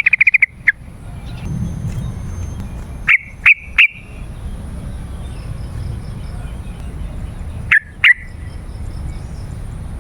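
Yellow-vented bulbul calling. It starts with a quick rattle of short, loud notes, then gives three separate notes a few seconds in and two more near the end, over a steady low rumble.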